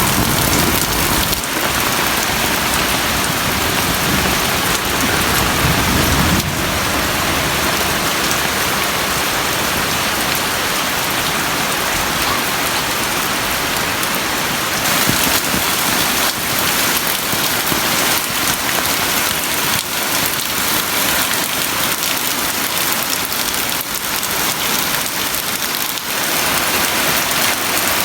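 Heavy tropical downpour, a steady dense hiss of rain, with a low rumble in the first few seconds.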